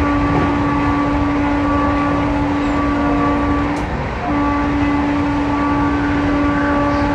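Passenger train running, heard from inside the coach as a steady rumble. A long, steady horn tone sounds over it, breaks off briefly just under four seconds in, then sounds again.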